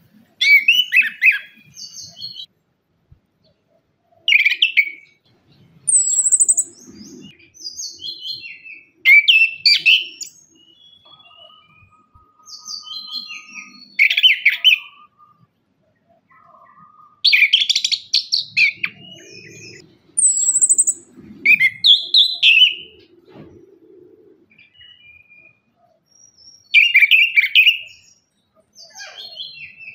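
Orange-headed thrush singing: loud phrases of quick, varied notes that jump in pitch, repeated every few seconds with short pauses between them.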